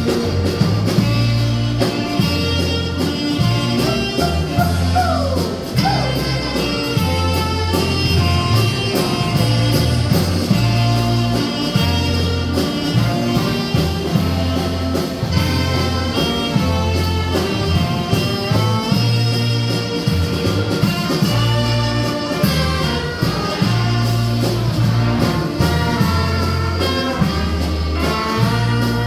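Brass band playing live: trumpets and trombones over a bass line that steps between low notes about once a second, with a brief sliding note about five seconds in.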